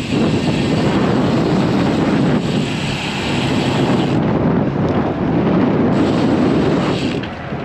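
Strong wind buffeting the microphone of a camera on a moving bicycle, a loud, steady rumble. A higher hiss swells twice, about two and a half seconds in and again near six seconds.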